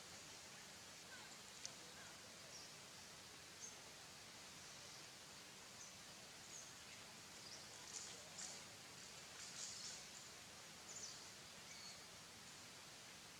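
Near silence: a faint steady hiss with scattered brief, high chirps, most of them in the second half.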